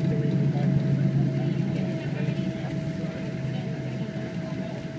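Cabin noise inside a Boeing 777 rolling on the ground after landing: a steady low rumble with a thin steady whine above it, slowly easing off.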